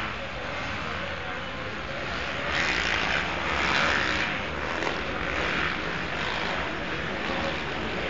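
Several motocross bikes racing, their engine noise blended together and swelling louder from about two and a half seconds in before easing off again.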